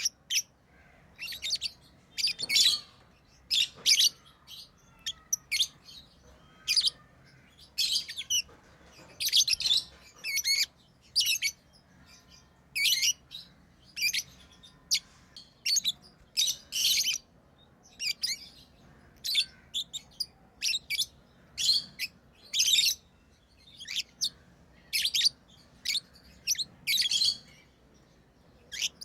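Lovebirds chirping: short, high-pitched chirps in quick, irregular clusters, several a second at times, with brief gaps between.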